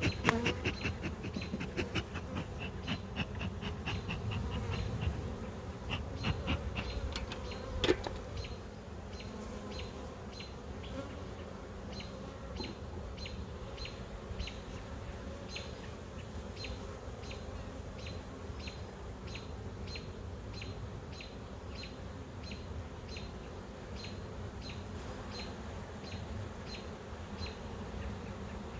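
Honey bees buzzing steadily around an open hive during an inspection. In the first few seconds there is a busy patter of clicks and one sharp knock about eight seconds in. After that a high, short ticking chirp repeats about twice a second over the hum.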